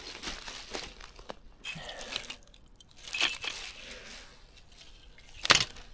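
Irregular crunching and rustling, like footsteps through dry undergrowth and debris, with one sharp snap or knock near the end.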